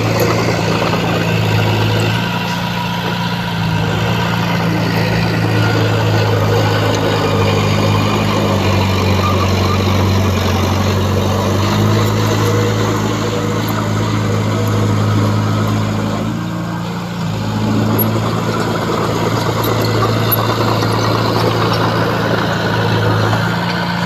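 Heavy diesel engine of a bulldozer running steadily under working load, its low pitch shifting every few seconds, with a brief drop about two-thirds of the way through.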